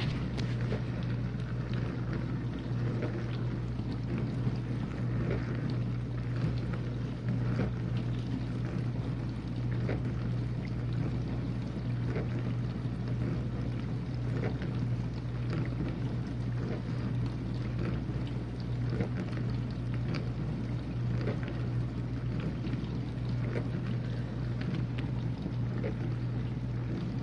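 Whirlpool dishwasher running its final rinse: the wash pump motor's steady hum with water spraying and splashing inside the tub.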